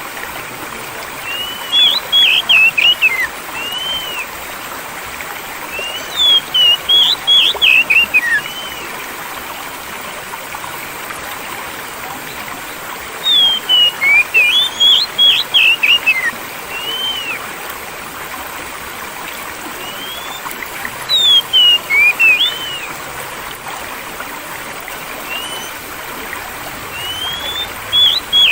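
Steady rush of flowing stream water, with a songbird chirping over it in short bursts of quick, arching notes about every six or seven seconds.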